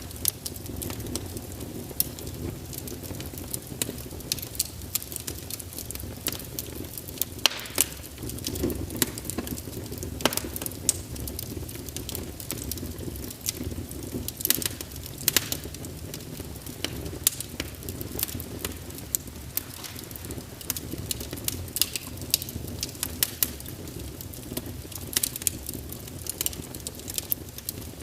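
Wood fire burning in a fireplace, with a steady low rumble of flames and frequent sharp crackles and pops from the burning logs.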